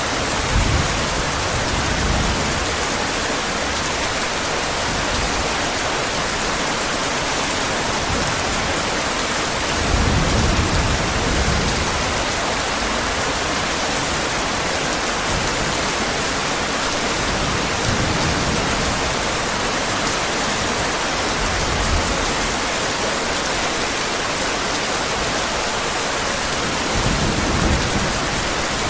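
Heavy rain falling steadily, with low rumbles of thunder swelling briefly about a second in, around ten seconds in, and near the end.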